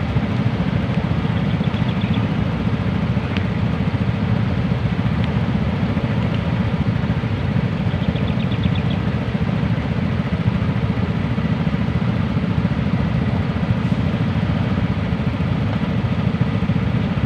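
Motorcycle engine idling steadily while the bike stands still, a low even throb with no revving.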